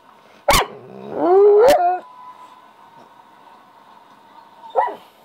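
Pit bull vocalising: a sharp yelp, then a drawn-out, wavering howl that rises in pitch for about a second, and another short yelp near the end.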